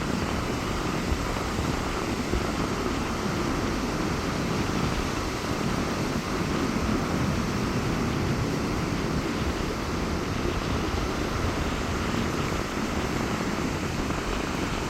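Rough sea surf washing onto a beach in strong wind: a steady rush of water with wind rumbling on the microphone.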